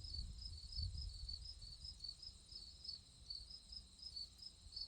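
Crickets chirping in a steady, faint chorus, about two or three short chirps a second, over a low rumble.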